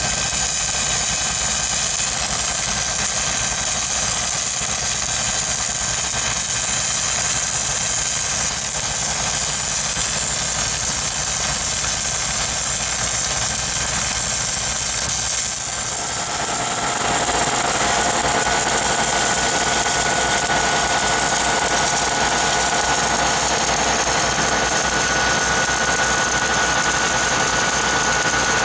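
Engine-driven welding rig engine running steadily. About sixteen seconds in, the sound changes and turns slightly louder, with a steady higher tone coming in.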